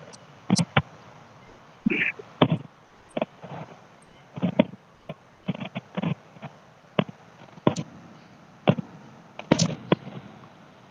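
Fireworks going off: a string of sharp bangs and pops, irregularly spaced, about one or two a second.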